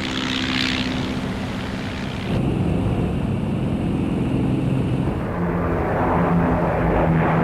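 Propeller aircraft engines droning steadily. The sound changes abruptly twice: it gets louder a little over two seconds in, then drops lower in pitch about five seconds in.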